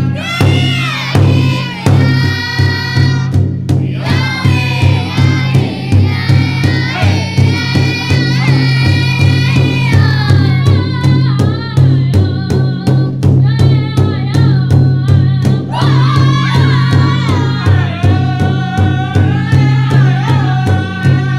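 A group singing in high voices, sliding up and down, over a steady, even drumbeat, like a powwow drum group's song.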